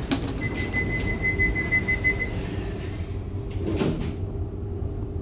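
Accord passenger lift's sliding doors closing: a steady high warning beep lasting about two seconds, then a knock about four seconds in as the doors shut, over the low hum of the lift.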